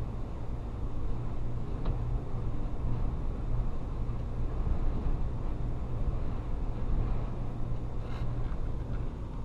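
Steady low rumble of blizzard wind buffeting the microphone.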